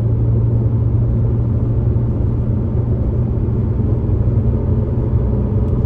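Turbocharged Porsche Cayman S flat-six engine and road noise while the car is driven at a steady speed: a steady low drone with rumble underneath.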